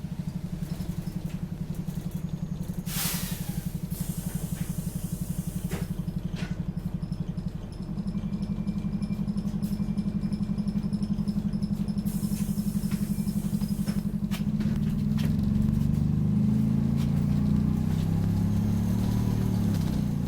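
Optare Solo bus engine heard from inside the cabin, running with a fast pulsing throb that sounds like a motorbike. It picks up revs and gets louder about fifteen seconds in. A brief high-pitched noise cuts across it about three seconds in.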